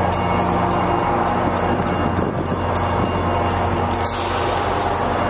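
MBTA commuter train's coaches rolling slowly past on the rails, over a steady low drone from the train. A brighter hiss joins about four seconds in.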